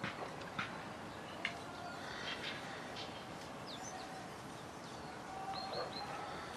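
Outdoor background hiss with scattered short bird chirps and whistles and a few small clicks.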